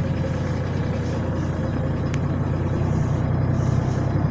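Tractor engine running steadily, climbing a hill.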